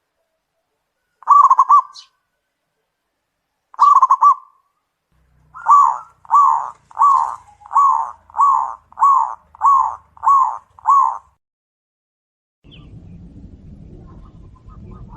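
Zebra doves (perkutut) calling: two short rolling, stuttering coos, then a run of nine evenly spaced coo notes, about one and a half a second. Near the end a quieter low, steady noise begins.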